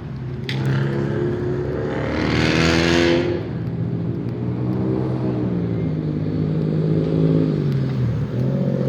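Car engine running with the revs rising and falling, and a louder rush of exhaust about two to three seconds in.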